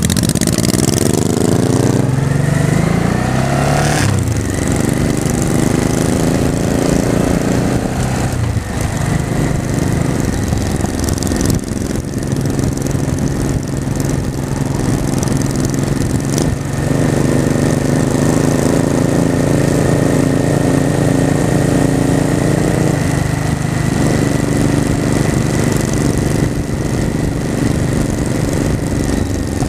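Honda Shadow V-twin motorcycle engine pulling away through the gears. The pitch climbs and drops back at shifts about two and four seconds in, then holds steadier at cruising speed, with a few more gear changes.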